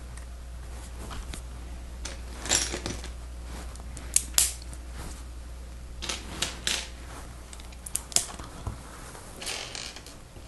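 Plastic Lego Technic pieces clicking and clattering as they are picked up and snapped together, in irregular sharp clicks and short rattles over a low steady hum.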